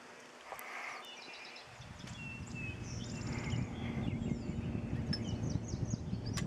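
Small birds chirping and calling repeatedly. From about two seconds in, a low irregular rumble joins them and is the loudest sound.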